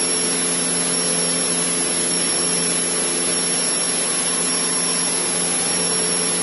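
Cessna 152's four-cylinder Lycoming O-235 engine and propeller running steadily in flight, heard from inside the cabin along with the rush of airflow, with a thin high steady whine over it.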